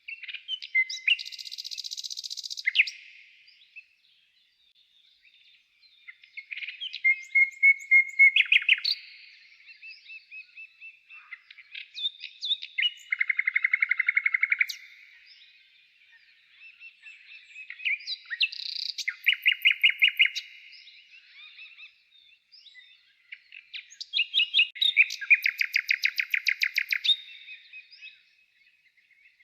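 Songbird singing: short phrases of fast trilled notes, each lasting two to three seconds, repeated about every six seconds with pauses between.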